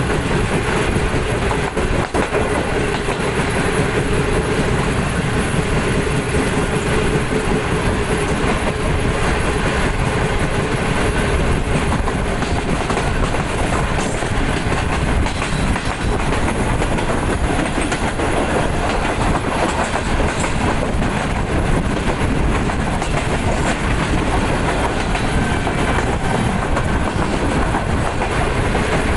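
Passenger train running at speed, heard from the side of a moving coach: steady noise of wheels on the track, with a faint hum for about the first twelve seconds.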